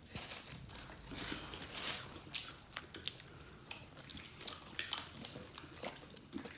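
Faint eating sounds at a meal: scattered clicks, crunches and rustling from chewing and tableware.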